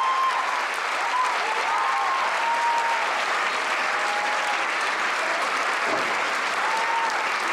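Audience applauding steadily, a dense even clapping from a concert-hall crowd.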